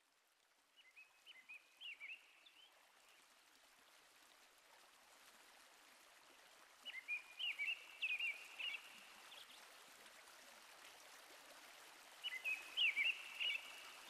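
Soft running water with a songbird singing three short phrases of quick chirping notes. The sound fades in at the start.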